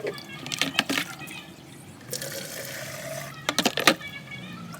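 Water poured from a hand dipper into a plastic measuring jug, a steady pour for about a second and a half, followed by a quick cluster of sharp plastic knocks as the dipper and jug are handled.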